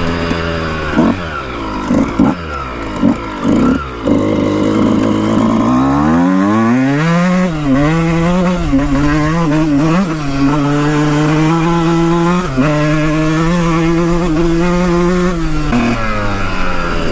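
Dirt bike engine being ridden: a few quick throttle blips in the first seconds, then it accelerates hard and holds a steady pitch with small rises and dips, and the throttle closes near the end.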